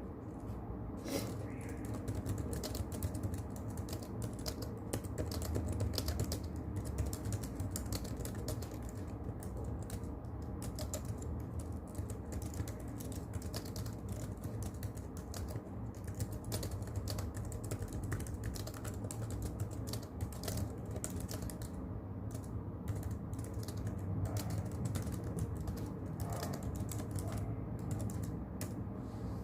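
Continuous typing on a keyboard, an irregular stream of soft key clicks, over a steady low brown-noise hiss.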